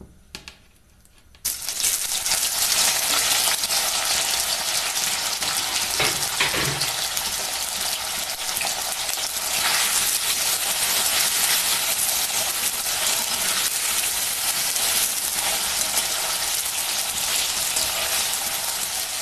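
Paneer cubes going into hot oil in a kadhai: a sizzle starts suddenly about a second and a half in, then the paneer keeps frying with a steady, loud sizzle as a spatula turns the cubes.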